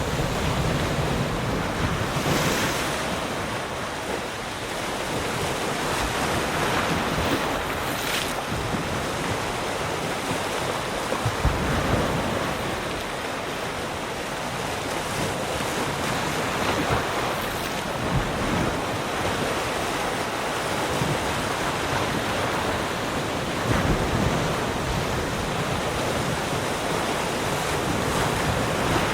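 Sea surf: waves breaking and washing up the shore in a continuous rushing that swells and ebbs every few seconds.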